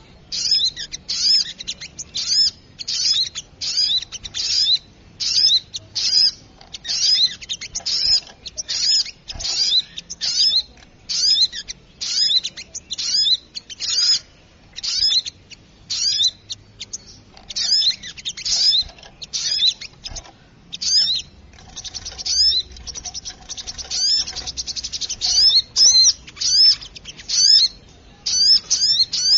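Spiderhunter (sogok ontong) calling noisily: clusters of sharp, high chips repeated about once or twice a second, with a fast, dense trill about three-quarters of the way through. It is a recorded lure call used to draw in small birds.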